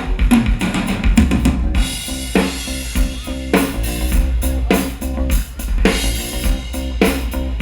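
A live rock band playing an instrumental passage, with a drum kit driving a steady beat of kick and snare hits under bass and sustained chords.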